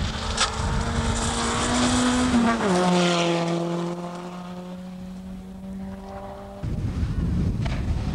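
Rally car engine running hard on a gravel stage, its pitch stepping down about two and a half seconds in and then holding steady. Near the end the engine tone cuts off abruptly into a rougher, noisier sound.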